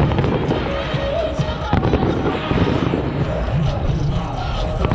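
Fireworks going off, with sharp bangs about two seconds in and again at the end, over music and a low rumble.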